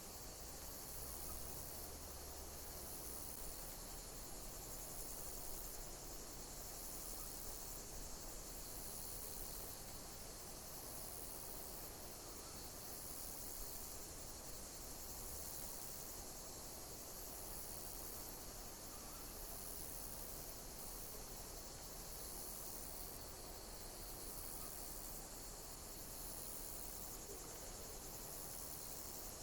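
Insects chirping, high-pitched, with a chirp pattern repeating about every second and a half over a steady background hiss.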